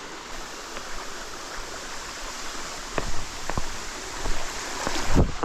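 Steady rush of running water, with a few short knocks in the second half; the loudest comes just before the end.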